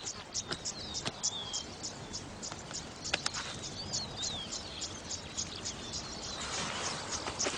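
Stone knocking sharply against the shell of an ostrich egg, twice in quick succession about three seconds in, over steady rhythmic high chirping of insects and a few bird chirps. A brief rustle comes near the end.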